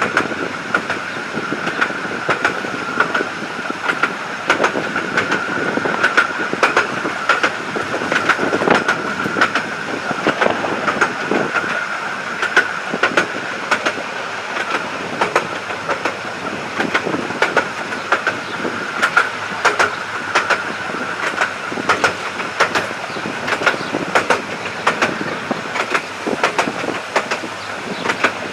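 Miniature railway train running along the track, heard from on board: a steady high-pitched wheel whine over a rumble, with frequent sharp clicks as the wheels pass over rail joints.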